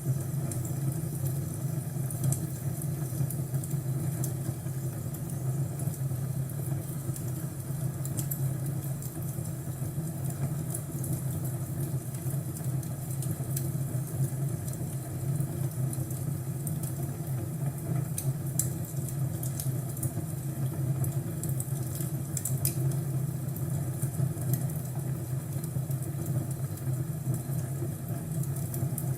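Crackling fireplace: scattered sharp pops and crackles over a steady low rumble, with a busier run of pops about two thirds of the way through.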